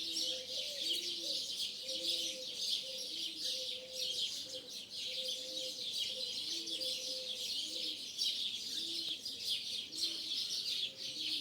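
A dense, high chatter of many small birds, starlings among them, over a dove cooing in a low, repeated phrase about once a second.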